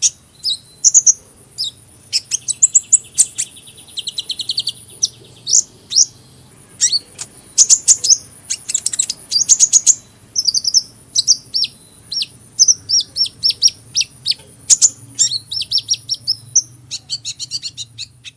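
Sunbird singing: a busy run of rapid, thin, high-pitched chirps and fast twittering trills, with a faint steady high whine behind them.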